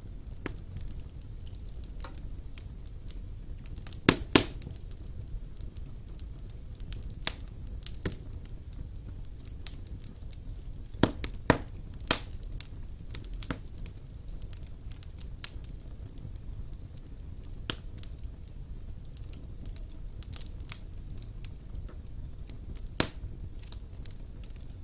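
Wood fire burning in a fireplace: a steady low rumble of flames with scattered sharp crackles and pops of burning logs, the loudest pops clustered a few seconds in and again near the middle.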